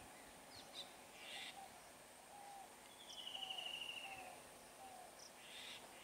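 Faint bird calls: a row of short low notes about once a second, with a buzzy trill falling in pitch about three seconds in and a few brief high chirps.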